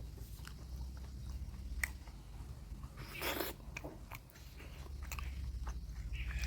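Close-up eating sounds: a person chewing and biting food with scattered wet clicks, and one louder, longer noisy mouth sound about halfway through. A steady low hum runs underneath.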